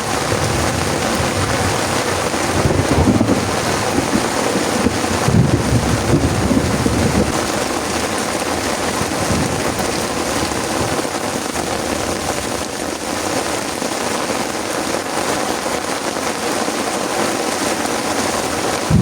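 Heavy rain pouring steadily, with a low rumble of thunder through the first several seconds that then dies away.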